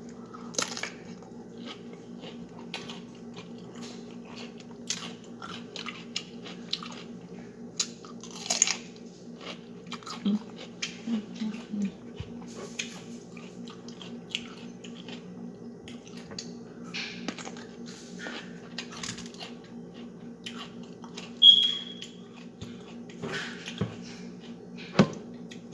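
A person eating seafood up close: wet chewing, lip smacks and small crunches in an irregular run over a steady low hum, with a brief high-pitched ring about two-thirds of the way through.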